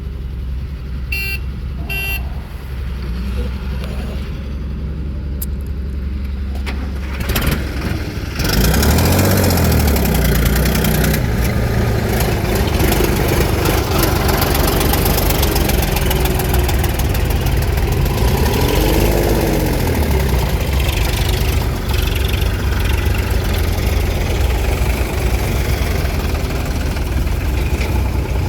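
Heavy diesel engines of tractors and a JCB backhoe loader running. The engine noise is steady and low at first, then much louder and rougher from about eight seconds in, with the revs rising and falling a couple of times as the machines work.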